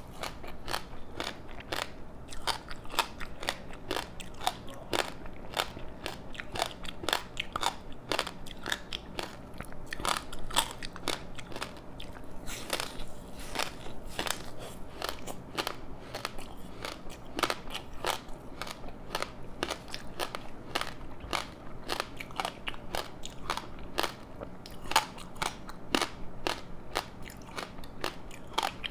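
Someone chewing a crispy seaweed-wrapped rice snack: a dense, unbroken run of crackling, crunching bites, several a second.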